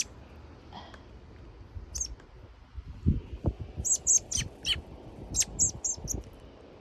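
Fledgling American robin chirping: a string of short, high chirps, more frequent in the second half, with a few soft low thumps mixed in.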